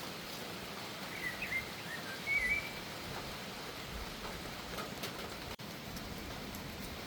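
Steady hiss of rain, with a bird giving a few short chirps about a second to two and a half seconds in.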